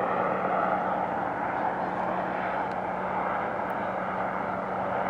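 A light airplane's engine running steadily, with a constant low hum under it.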